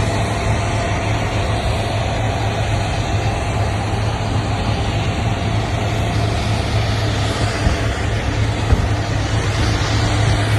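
Steady, loud engine noise with a constant low hum and a fainter steady tone above it, unchanging throughout.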